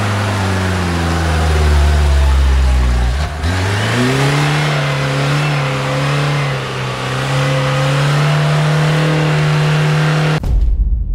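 Lada Niva's engine revving hard under load while climbing a muddy slope; the revs sag briefly about three seconds in, then rise again and hold high. The sound cuts off suddenly near the end.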